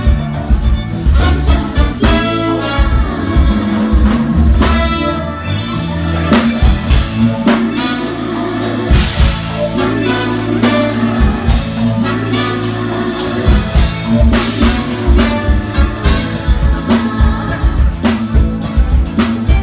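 A live band playing a song: drum kit keeping a steady beat with kick drum hits, under a bass line and melodic instruments.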